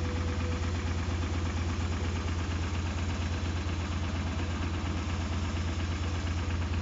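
Mitsubishi 4B12 2.4-litre inline-four engine running steadily at idle on a test stand.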